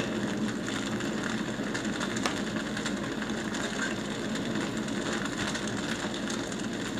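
Steady mechanical whirring and clattering from a machine sound effect played over the stage, with a fine rapid rattle and no let-up.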